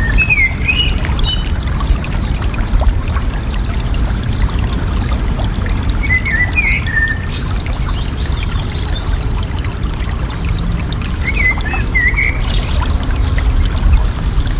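Water flowing and splashing steadily, with a bird calling three times in short warbling phrases: near the start, about six seconds in, and about eleven seconds in.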